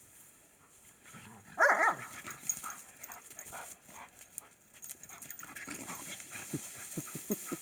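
A dog barks once, loudly, about one and a half seconds in, then makes several short, low sounds near the end.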